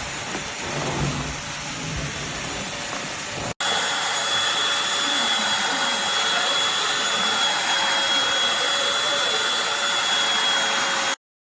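Eureka Blaze stick vacuum cleaner running. About three and a half seconds in, the sound cuts abruptly to a steadier run with a thin, high whine, which stops abruptly near the end.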